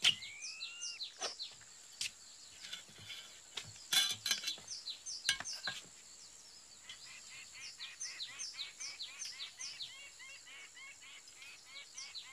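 Birds chirping: a quick run of short, falling chirps, several a second, growing denser in the second half, with a rising whistle right at the start. A few sharp clinks and knocks in the first half.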